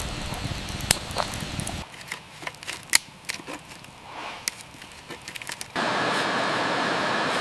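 Wood fire crackling, with sharp scattered pops and snaps. Near the end it cuts abruptly to a steady, louder hiss.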